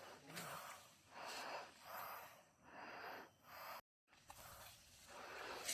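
A hiker's heavy breathing, a breath in or out roughly every half second to a second, faint and noisy. The sound drops out to silence for a moment about four seconds in.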